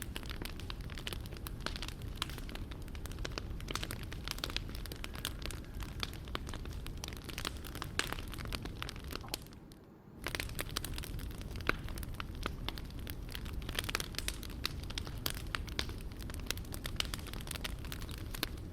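Wood fire crackling, with frequent sharp pops and snaps over a low rumble. The sound fades out briefly about ten seconds in, then resumes.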